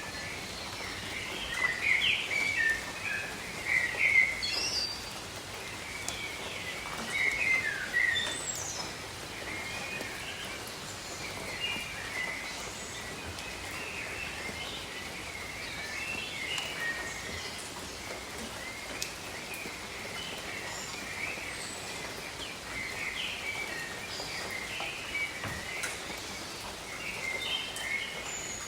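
Steady rain hiss over a tropical forest, with birds chirping and calling throughout; the busiest, loudest bursts of bird calls come in the first eight seconds or so.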